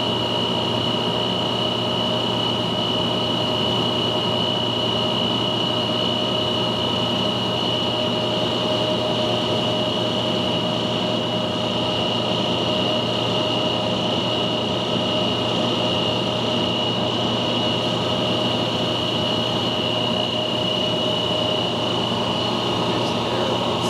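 Gardner Denver ESKAE 60 hp air-cooled rotary screw air compressor running steadily, a constant machine hum with a steady high whine.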